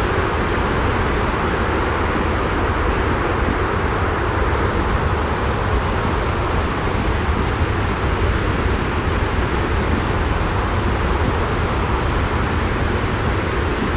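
Steady, unbroken white noise with a deep rumble underneath, with no drops, taps or changes.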